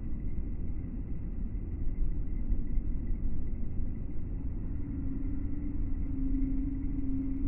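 Low, steady rumble of a suburban train entering the station, with a steady tone joining in about five seconds in.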